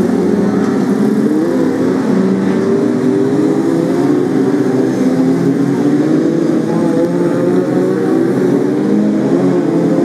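Several BriSCA F2 stock cars racing together, their engines overlapping and revving up and down as they lap the track.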